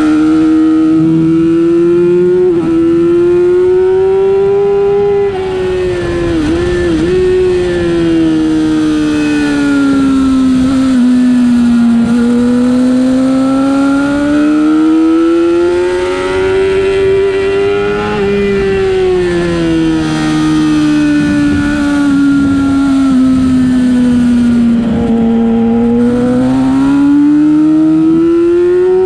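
Middleweight racing motorcycle's engine heard onboard at speed, its pitch climbing and falling in long sweeps as the revs rise and drop through the corners, with a brief dip about six seconds in, over steady wind rush.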